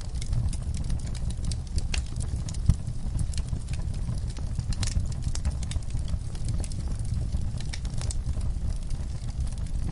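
Wood fire of burning logs crackling, with a low steady rumble of the flames and frequent irregular sharp pops and snaps, one louder pop a little under three seconds in.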